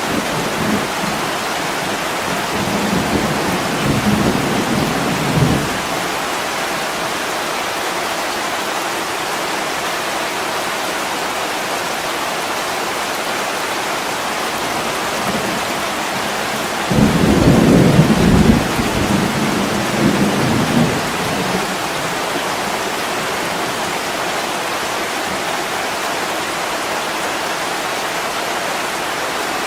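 Heavy rain on window glass, a steady hiss, with low rumbles of distant thunder. One rumble fades out over the first few seconds, and another starts suddenly about 17 seconds in, dying away by about 21 seconds.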